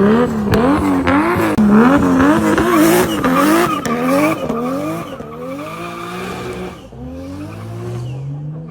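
Nissan R32 Skyline GT-R's RB26 twin-turbo straight-six revving up and down in quick repeated surges, about two a second, for the first four seconds or so. It then eases off and fades, with the engine note climbing again near the end.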